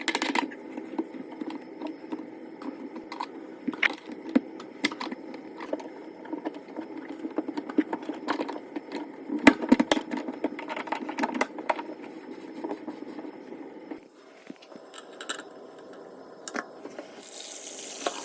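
Clicks, knocks and scraping of sink stopper and drain parts being handled and fitted, over a steady low hum that stops about three quarters of the way through. Near the end the faucet starts running.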